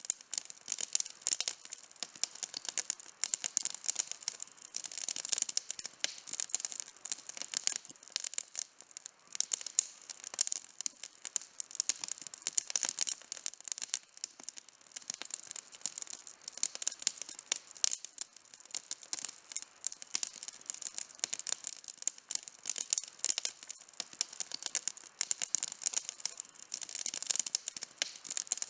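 Campfire burning with constant crackling: many quick sharp pops and snaps, thick and irregular throughout.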